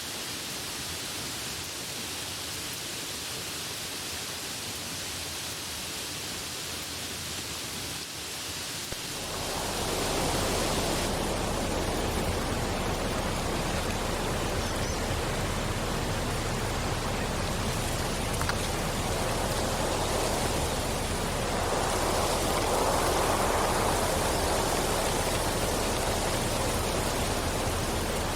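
Steady rain, a dense hiss. About nine seconds in it becomes fuller and heavier, with more low rumble, and it swells briefly near the end.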